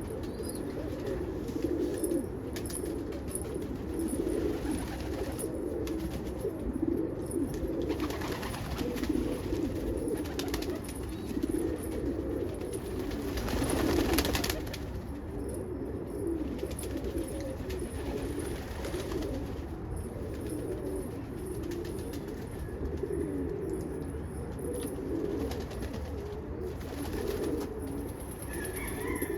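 Pigeons cooing continuously, several low calls overlapping.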